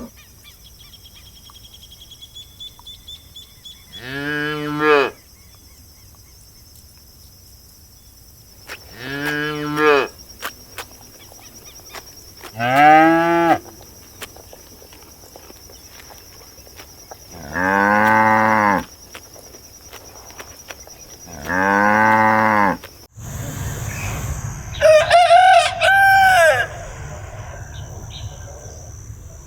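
Cattle mooing five times, each call about a second long and a few seconds apart. Then, after a sudden change in the background, a rooster crows near the end.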